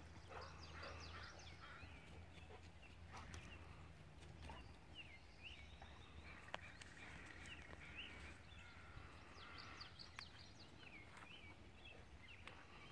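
Faint birdsong: many short chirps and quick rising and falling calls from several birds, over a steady low rumble.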